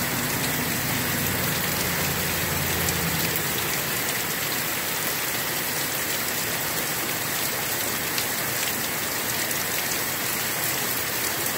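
Heavy rain pouring down steadily, a dense even hiss with scattered sharp drop ticks.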